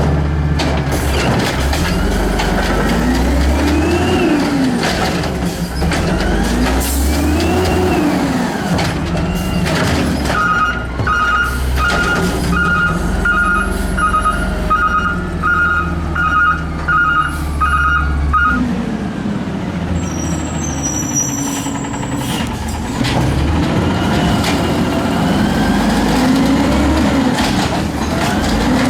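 Garbage truck's diesel engine running, its pitch rising and falling several times as it revs. In the middle its reversing alarm beeps steadily, about one and a half beeps a second for some eight seconds.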